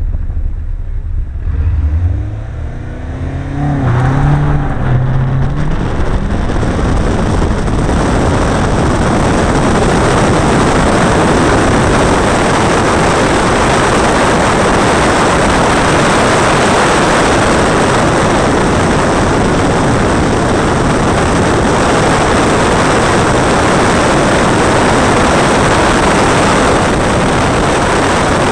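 Caterham Roadsport's engine revving and pulling away, rising in pitch over the first few seconds. It then runs hard at speed, with a loud, steady rush of wind over the open car's camera covering most of the engine sound.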